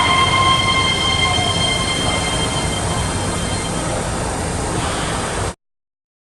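Keihan 3000 series electric train running through an underground station, a steady rumble with high whining tones that fade out over the first few seconds. The sound cuts off abruptly about five and a half seconds in.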